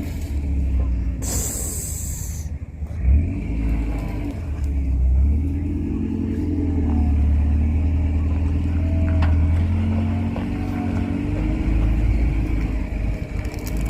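A large truck's engine running under load as it manoeuvres, swelling and easing. There is a short, loud hiss about a second in and a thump about three seconds in.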